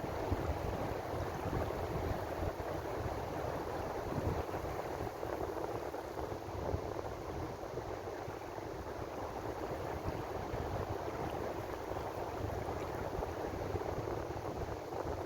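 Ocean surf washing continuously against the shore: a steady rushing wash over a low rumble, easing slightly in the middle before building again.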